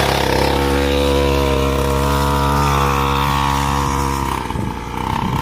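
Small motocross bike engine running at steady revs, its note breaking off about four and a half seconds in.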